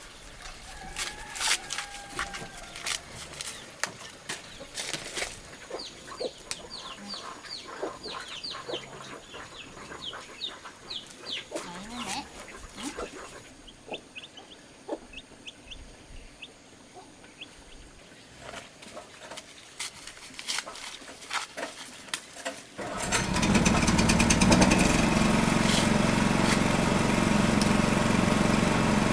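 Chickens clucking and peeping, short falling chirps among scattered clicks and knocks. About three-quarters of the way through, a small engine starts up and runs steadily, much louder than the birds.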